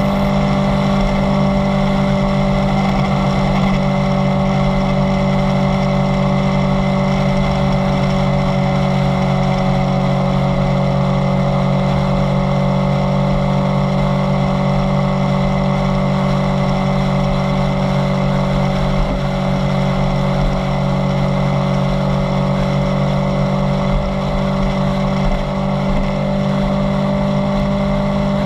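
Kawasaki Z900 inline-four engine running steadily under way at a near-constant speed, its pitch easing slightly lower through the middle, with no hard revving.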